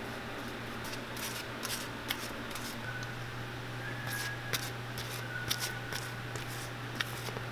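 Scattered light clicks and taps over a steady low hum that grows slightly louder about three seconds in.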